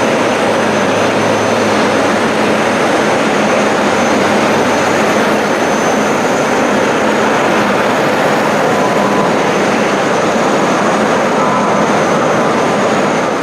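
Jet airliner engines close by, a loud, steady noise with a thin high whine over it.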